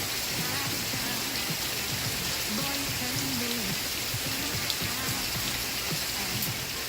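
Steady rain falling, with faint, muffled music from an old TV variety show playing underneath.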